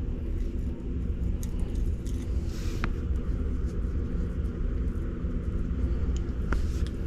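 Steady low mechanical rumble of a motor running, with a few light clicks.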